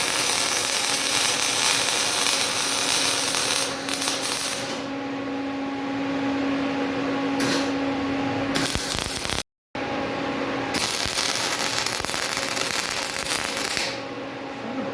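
Metalworking on a car frame's body mounts: bursts of harsh, hissing shop-tool or welding noise that stop and start, over a steady low hum, with a short cut to silence about nine and a half seconds in.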